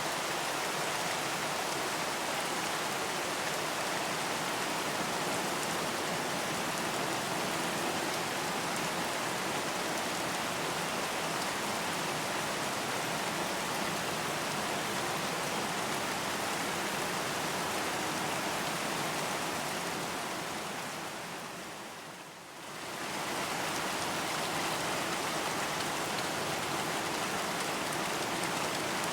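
Steady, dense rain falling and pattering on a surface. About three quarters of the way through it fades down briefly and swells back up.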